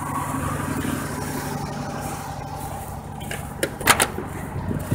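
Ford 300 inline-six in a 1985 Ford F-150 plow truck idling steadily, still on choke after a cold start, with a few short clicks and knocks about three and a half to four seconds in.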